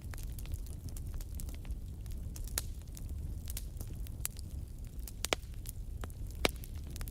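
Campfire burning with irregular crackles and pops over a low, steady rumble, the sharpest pops about two and a half seconds in, past five seconds and near six and a half seconds.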